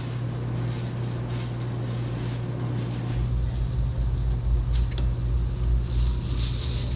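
Steady low hum and rumble of a 500 series Shinkansen heard inside the passenger cabin while it runs, the deep rumble growing stronger about three seconds in.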